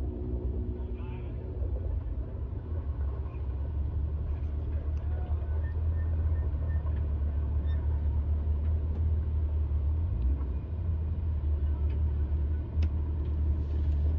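Steady low rumble of an idling vehicle engine, with a few faint clicks near the end.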